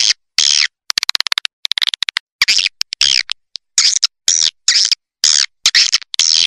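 Swiftlet lure recording: short harsh chirping calls alternating with rapid trains of clicks, in a repeating pattern broken by brief silences. It is the playback sound used to draw swiftlets into a nesting house.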